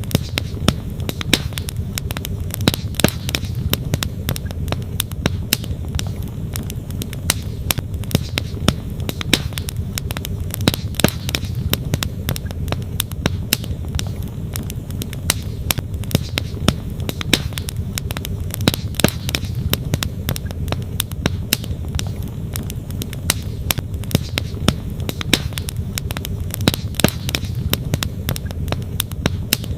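Campfire wood crackling, with many quick irregular snaps, over the steady low rush of a flowing stream.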